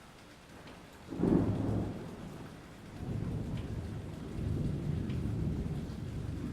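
Thunder during steady rain: a sudden loud clap about a second in that fades, then a low rolling rumble that carries on under the rain hiss.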